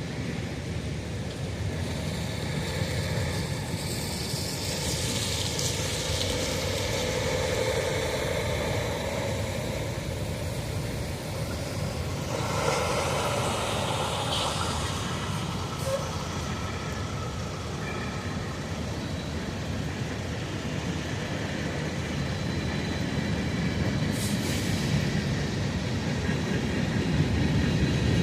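CSX freight train's diesel locomotives running as the train pulls out, a steady low rumble that grows louder near the end.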